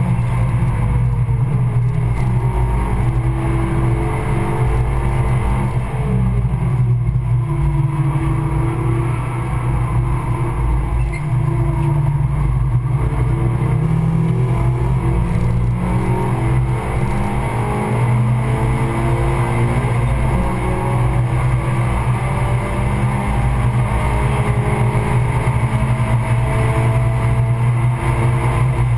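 The four-cylinder engine of a Stage 2 tuned Suzuki Swift Sport running hard, heard from inside the cabin, with loud steady road and tyre noise. Its pitch climbs as the revs rise and drops back at each gear change or lift for a corner, several times over.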